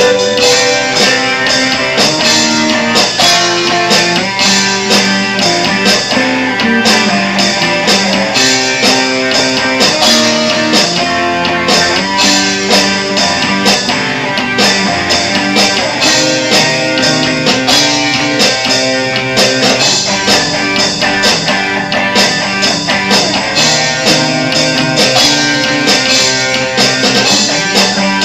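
Instrumental psychedelic rock with guitars strumming and playing over a steady beat, without vocals.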